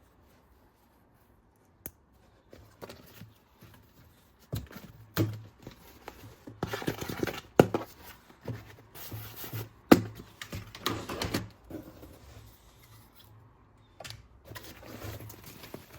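Plastic toy parts and packaging being handled: after a quiet second or two, scattered sharp clicks and knocks with bursts of rustling.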